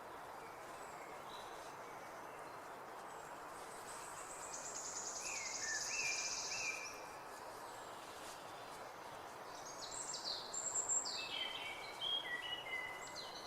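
Small birds singing over a steady background hiss. A rapid high trill comes about four to six seconds in, and a run of quick, falling, whistled notes follows near the end.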